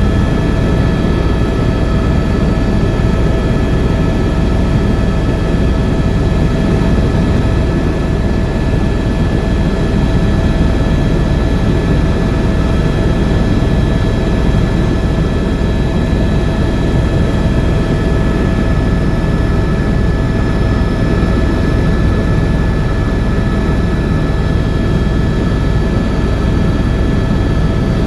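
Tour helicopter in flight: a steady, loud drone of rotor and turbine engine with a constant high whine over it.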